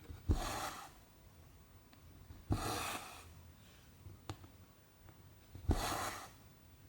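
Cross-stitch needle going through 14-count canvas three times, each with a small tap or pop followed by a short swish of cotton thread being drawn through the fabric.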